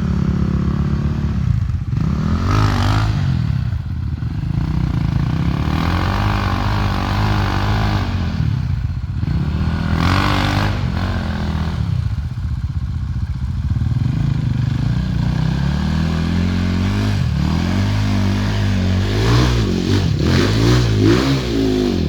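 Off-road enduro motorcycle engine running close by, its pitch climbing and dropping again and again as it accelerates, shifts and backs off over the terrain, with quicker revs near the end.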